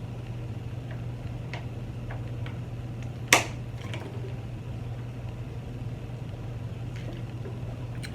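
Quiet eating: a few small clicks from mouth and utensils, one sharper click about three seconds in, over a steady low hum.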